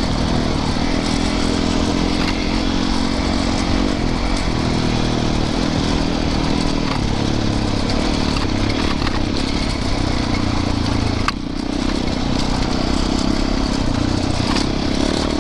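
Yamaha YZ450FX single-cylinder four-stroke dirt bike engine running under way on a trail, its note rising and falling with the throttle. It eases off briefly about eleven seconds in.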